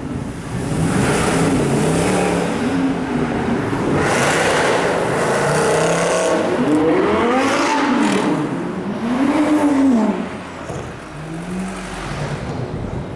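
Loud performance car engine with a tuned exhaust revving, its note climbing and falling in several rev swells, then easing off to a quieter run about ten seconds in.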